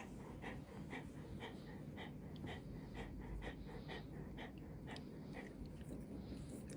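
Golden retriever panting in a steady rhythm, about two breaths a second, easing off near the end.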